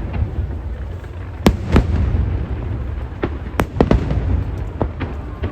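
Aerial fireworks bursting over a continuous low rumble, with sharp bangs coming in quick pairs about a second and a half in and again past three and a half seconds, plus fainter cracks in between.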